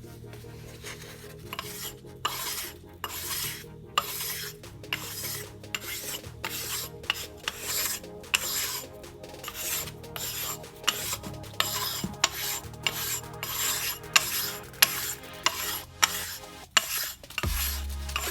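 Repeated back-and-forth rasping strokes, about two a second, of hand scraping or abrading on a metal engine part during an engine teardown.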